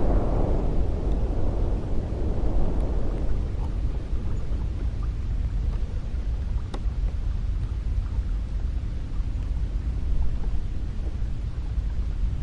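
Cold wind blowing with a steady deep rumble; a stronger gust at the start dies away over the first few seconds.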